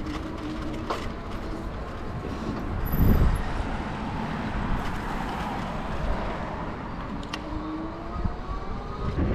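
Electric bike riding over a bumpy path: a steady rumble of tyres and jolting, with one heavy jolt about three seconds in and a faint rising whine near the end.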